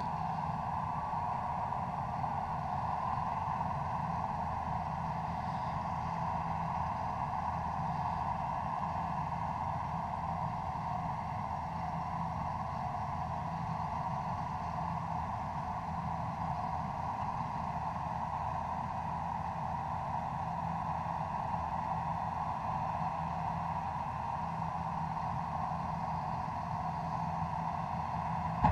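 A vehicle engine running at a steady speed, an even drone with no change in pitch, and a short sharp sound at the very end.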